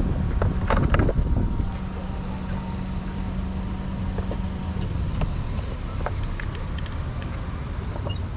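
Motorcycle engine running under way, a steady drone whose held note drops away about five seconds in, with scattered light ticks and wind on the microphone.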